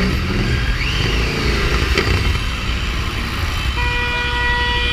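Motorcycle engine and road noise while riding in city traffic. Near the end a vehicle horn starts a long, steady honk.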